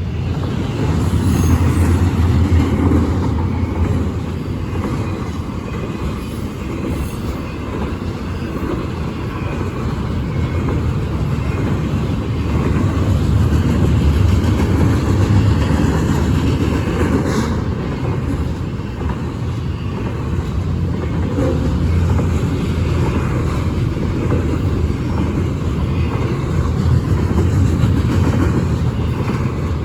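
Union Pacific intermodal freight train rolling past: a steady rumble and rattle of cars on the rails, slowly rising and falling in loudness.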